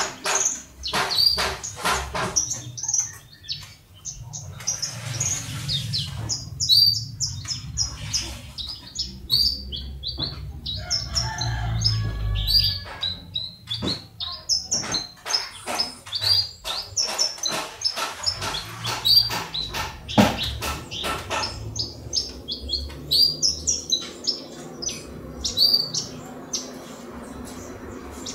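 Branjangan (Horsfield's bush lark) singing a long, fast song of varied high chirps and short trills with hardly a pause, over a low rumble.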